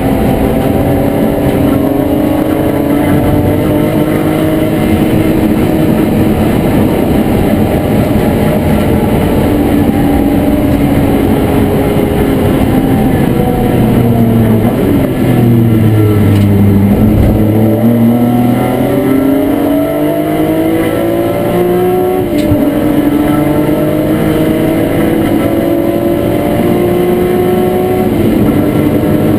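BMW E36 M3 race car's straight-six engine heard from inside the stripped, caged cabin, running hard at high revs over road and wind noise. Its pitch falls steeply about halfway through as the car slows for a corner, then climbs again, dropping briefly at two upshifts in the last several seconds.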